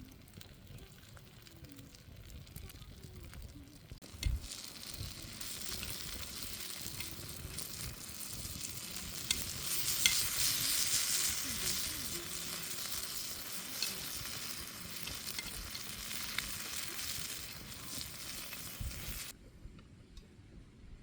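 Food sizzling in a hot pan, with a few light clicks. The sizzle starts about four seconds in, is loudest around the middle, and cuts off suddenly near the end.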